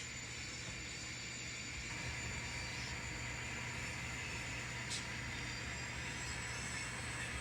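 N scale model diesel locomotive's sound decoder playing a steady engine rumble through its small speaker as the train moves, with a single click about five seconds in.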